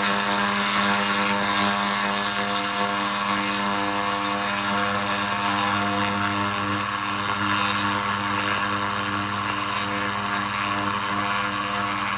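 SFX 2000 handheld laser rust remover running continuously while cleaning metal: a steady hum with an even high hiss over it.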